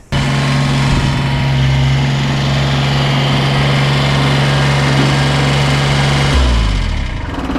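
A motor running with a steady low hum and hiss, then winding down in pitch about six seconds in as it is switched off.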